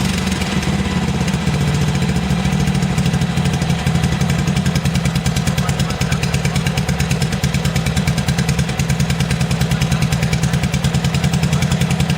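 BSA 441 single-cylinder four-stroke motorcycle engine idling steadily with an even, rapid pulse of firing strokes.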